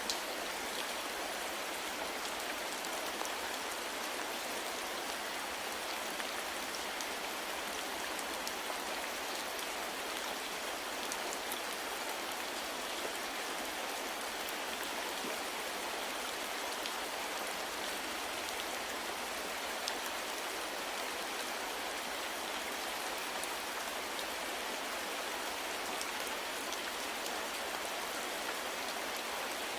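Steady rain falling, an even hiss of rain with many small drops pattering on a surface.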